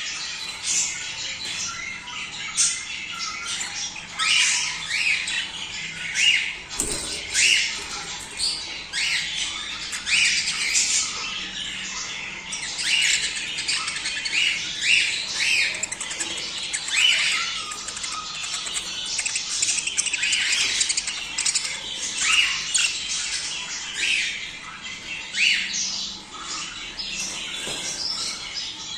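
A flock of budgerigars chattering: many short chirps overlapping without a break, with louder squawks standing out every second or so.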